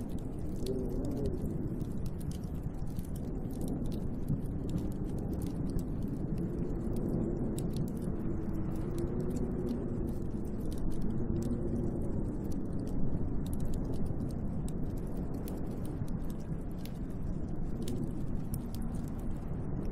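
Snowstorm wind blowing against a window: a deep, steady rush with a wavering moan that rises and falls in pitch, and many faint scattered ticks throughout.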